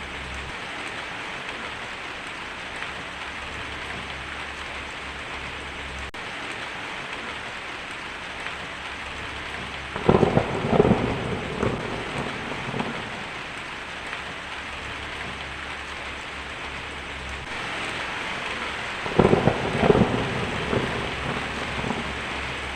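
Heavy rain drumming steadily on a tin roof, with thunder breaking twice: a crackling rumble about ten seconds in and another a few seconds before the end.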